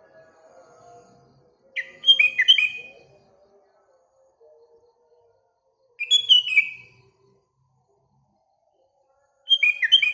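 Sooty-headed bulbul (kutilang) singing short, quick phrases of clear whistled notes, three times: about two seconds in, about six seconds in, and near the end.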